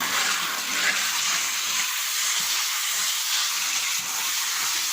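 Food sizzling as it fries: a steady, even hiss that sets in suddenly.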